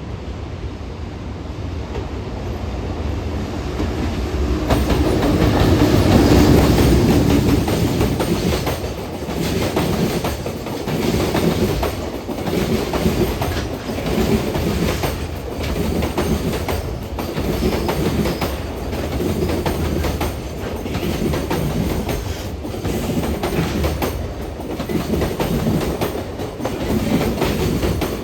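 JR Freight EH500 electric locomotive and its container wagons passing at speed. The noise builds to its loudest about six seconds in, then the wagons roll by with a regular clickety-clack of wheels over the rail joints, a beat every second and a half to two seconds.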